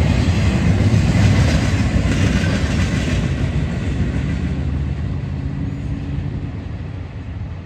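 A train passing on the rails: wheels rumbling and clattering on the track, with a steady engine hum underneath that shows up in the second half. It grows gradually fainter as it moves away.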